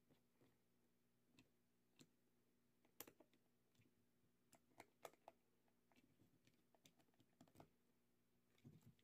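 Faint, irregular clicks and taps of a Torx screwdriver and hands working the plastic battery-pack housing, with a few sharper clicks about three and five seconds in.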